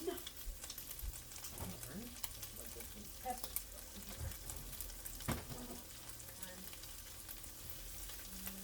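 Seasoned chicken pieces sizzling in a frying pan, a steady crackling hiss, with one sharper knock about five seconds in.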